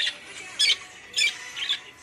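Budgie giving short, sharp squawking calls, four in quick succession about half a second apart.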